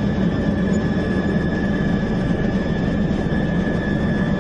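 Steady whirring drone of a toy helicopter with its rotor spinning, with a thin, steady high whine on top.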